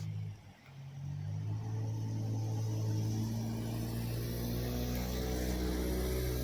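Steady low drone of a motor vehicle's engine, dipping briefly about half a second in and then holding even.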